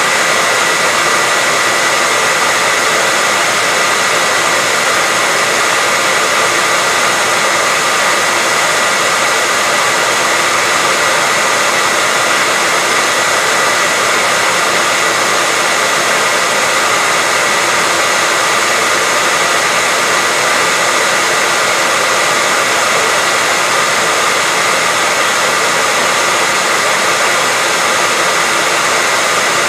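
Hair dryer running steadily: an even rushing hiss with a steady high whine through it, unchanging throughout.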